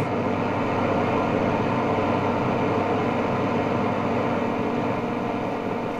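Grundig 4198 tube radio's loudspeaker giving a steady hiss of static with a faint mains hum under it, no station coming through, with no antenna connected.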